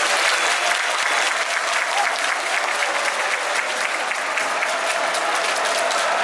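Football supporters' crowd clapping and cheering in the stands, many hands clapping at once over a wash of crowd voices.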